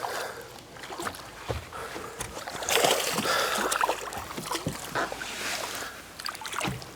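A hooked bass splashing and thrashing at the water's surface beside the boat as it is played in. The splashes and sharp knocks come irregularly.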